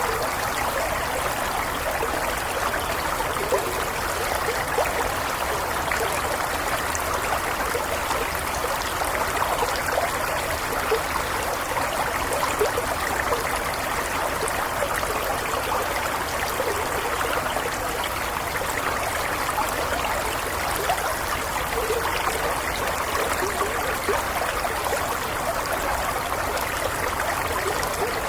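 Small stream flowing steadily over stones, a continuous burble and trickle with small splashes.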